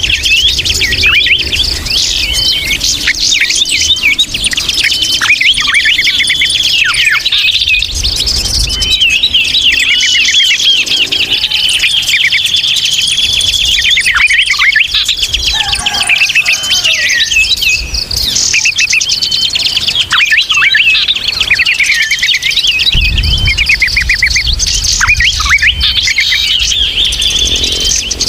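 A dense, noisy chorus of many small birds chirping and twittering at once, calls overlapping without pause: a bird-luring (pikat) call recording. A low rumble comes in twice, once about eight seconds in and again for a few seconds near the end.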